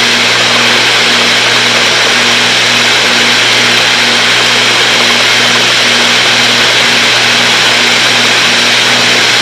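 Cessna 310's twin piston engines and propellers droning steadily in flight, heard inside the cabin. A tone in the drone swells and fades in a slow, even pulse, a bit more than once a second: the beat of the two propellers turning at slightly different speeds.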